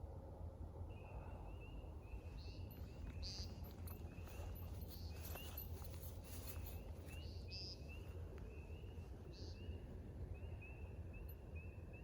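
American woodcock at night: a faint, steady run of short high chirping notes, several a second, with a brief higher call every second or two, over a low background rumble.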